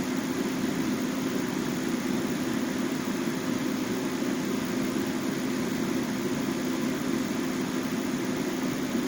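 Heat Star portable propane heater running steadily on its lower setting: a continuous burner roar with a steady low hum.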